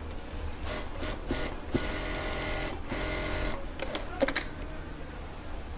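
Single-needle lockstitch sewing machine sewing a test seam in short bursts, with one longer steady run of about two seconds in the middle. The test shows the thread tension is still bad, the stitching puckered.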